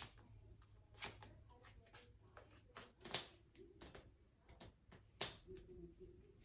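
Quiet room with a handful of soft clicks and taps of trading cards being handled and laid down on a table; the sharpest tap comes about five seconds in.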